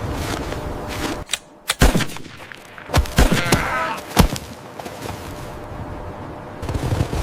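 Several sharp bangs, single and irregularly spaced, between about two and four seconds in.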